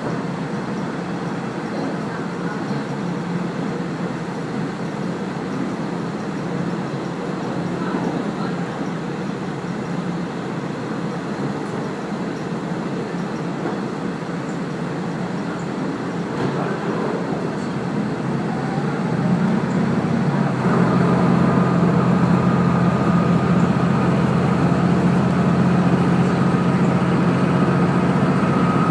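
Running noise of the Kazekko KiHa 48 diesel railcar heard from on board, a steady rumble of wheels on rail. About two-thirds of the way through it grows louder and a steady engine drone with a held tone comes in.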